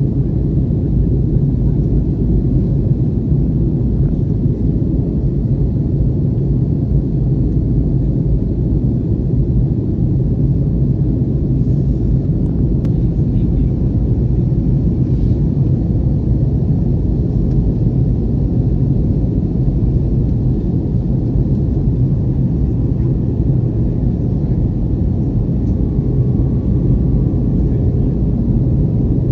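Steady low rumble of jet engine and airflow noise heard inside the cabin of an Airbus airliner in flight.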